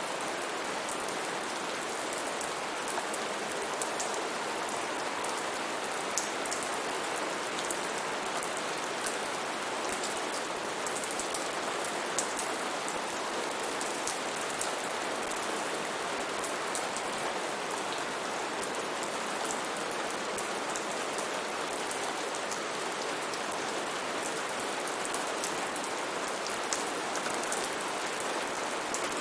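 Steady rain falling, an even hiss with many small drops pattering on leaves and surfaces.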